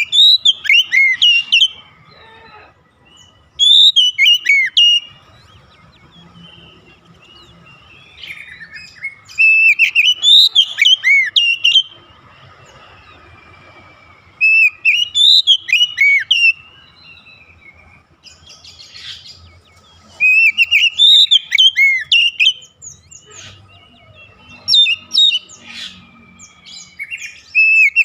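Oriental magpie-robin (kacer) singing in repeated bouts of quick, rising and falling whistled notes. Each bout lasts one to two seconds, with pauses of a few seconds between them.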